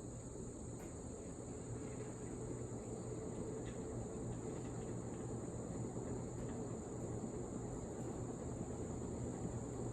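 Two Emerson K55 52-inch fiberglass three-blade ceiling heat fans running steadily on high speed: an even rush of moving air with a low motor hum.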